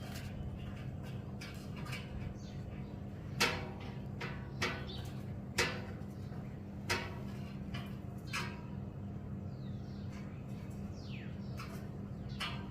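A clothes hanger clacking and knocking as a black-capped lory grapples with it: about five sharp knocks at uneven intervals over a steady low hum. A few faint falling squeaks come near the end.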